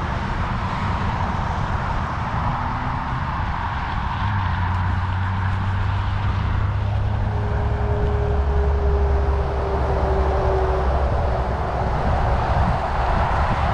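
Steady wind rush over the action-camera microphone and tyre rumble from a bicycle being ridden on an uneven dirt road. A low hum joins about four seconds in, drops lower in pitch and fades after several seconds.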